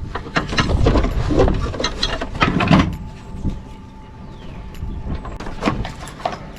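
Hand-tool and metal-and-plastic handling clatter as the last bolt is taken out and the walk-behind mower's drive cover shroud is worked off: dense clicking and scraping for about three seconds, then quieter with a few scattered clicks.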